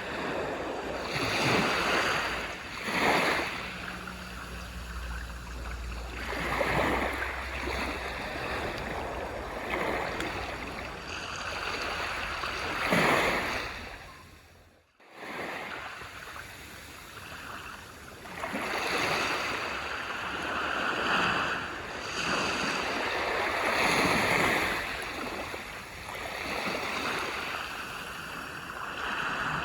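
Waves breaking and washing up the shore, the surf swelling and fading every few seconds. The sound drops out briefly about halfway through.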